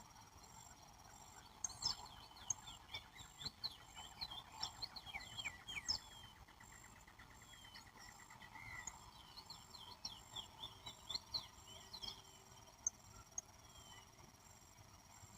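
Wild birds calling in quick bursts of short chirps, one of them a fast rising trill, over a steady high-pitched drone of insects. The chirping thins out in the last few seconds.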